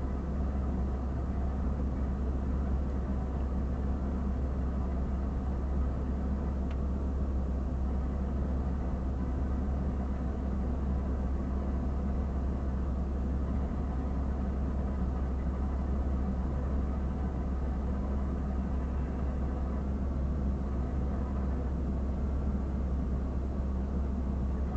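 A vehicle engine idling, a steady low rumble that stays even throughout.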